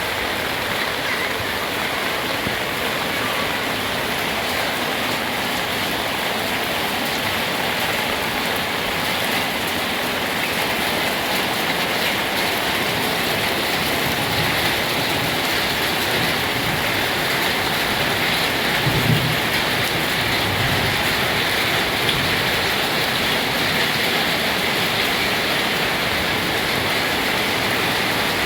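Heavy rain pouring down in a steady, even hiss, with a brief low thump about two-thirds of the way through.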